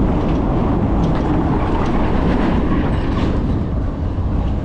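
Zota Zephyr e-bike rolling over a brick road: tyres drumming on the bricks and the bike rattling with a fast, uneven run of small knocks over a low rumble.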